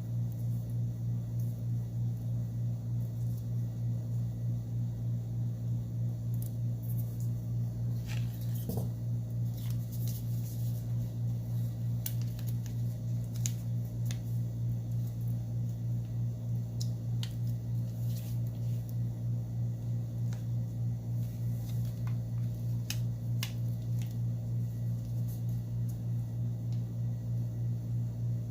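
Scattered small clicks and taps of tools and phone parts as a Samsung Galaxy Note 8 battery is fitted, over a steady low hum with a regular pulse.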